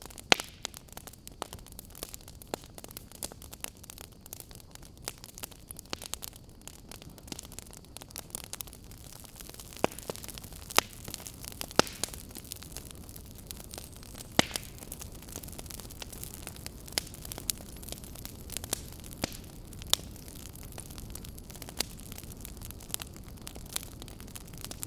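Burning firewood crackling, with irregular sharp pops over a steady low hiss.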